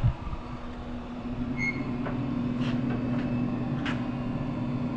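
A click as the Traeger pellet grill's control is turned to Smoke, then its combustion fan and auger motor start up and run with a steady hum, with a few faint ticks over it.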